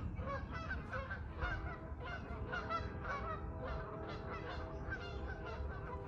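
A flock of geese honking, many short calls overlapping one another without pause, over a steady low rumble.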